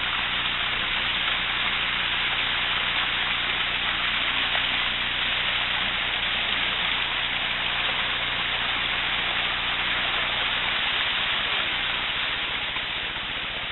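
Small stream flowing: a steady rush of water.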